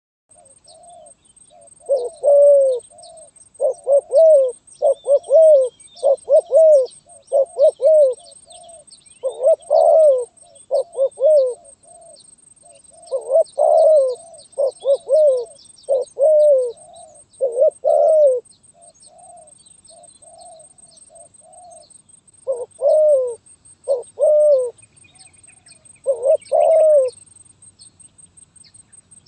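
Spotted dove (terkukur) cooing in repeated bursts of short, clipped coos with pauses between them. This is the stuttering, broken-up call that keepers call 'gagap'.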